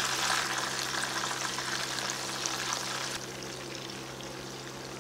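Batter-coated prawns sizzling in hot oil in a wok, a steady hiss that drops a little about three seconds in, over a steady low hum.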